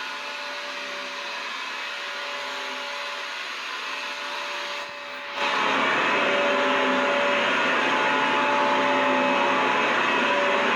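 Vacuum cleaner running continuously, a steady rushing noise with a few steady whining tones in it. About five seconds in it dips briefly, then carries on clearly louder and fuller.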